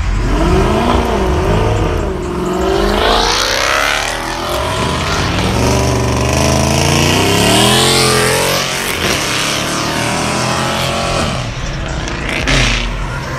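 Dodge muscle cars revving hard as they pull out onto the road one after another, the engine pitch climbing and falling several times, with tires squealing.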